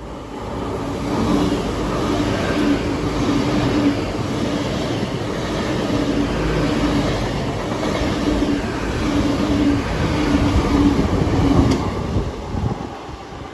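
Great Western Railway Class 800 bi-mode express train passing through the station at speed without stopping. A steady rush of wheels on rail with a broken low hum swells about a second in, holds while the carriages go by, and fades near the end as the train leaves.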